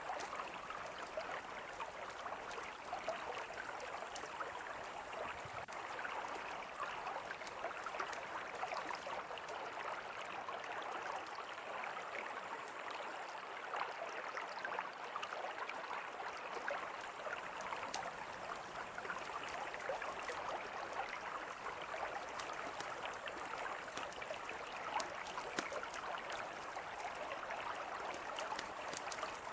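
Mountain river flowing steadily, with scattered small crackles and pops from a campfire over the top.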